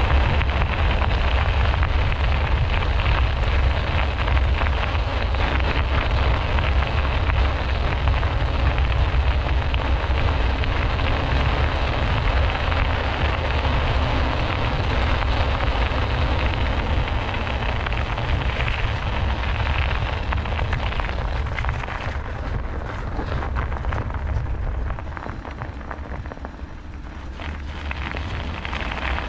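Wind buffeting the microphone of a bicycle-mounted camera, mixed with the rough rolling noise of bicycle tyres on a forest track. It eases off for a few seconds near the end, then picks up again.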